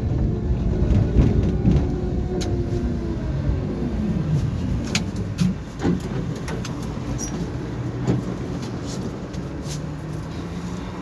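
Inside a tram car: the traction motor whine falls in pitch over the first few seconds as the tram slows, over a steady low rumble, with scattered sharp clicks and knocks.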